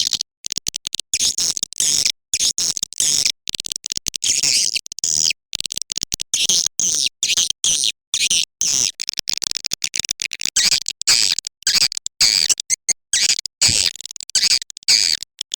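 Recorded swiftlet lure call: a dense, high-pitched twittering chatter of swiftlets, chopped by many abrupt short gaps of silence. It is the kind of call track played in swiftlet houses to draw the birds in to roost and nest.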